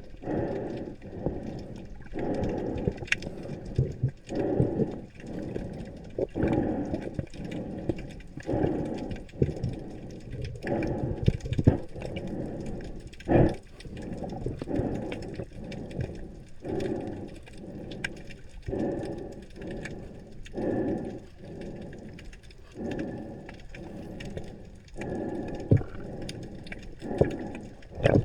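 Water sloshing and bubbling, heard as if underwater, swelling in surges about every two seconds with an occasional sharp click.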